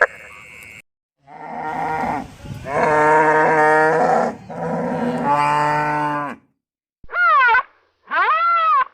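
Cow mooing, several low calls in a row over about five seconds. Near the end come two short calls that rise and fall in pitch, from a different animal.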